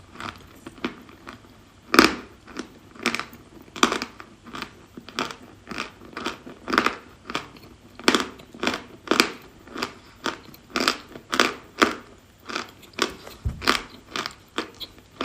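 Close-up chewing and crunching of chalk in the mouth, with crisp crunches at a steady pace of about two a second.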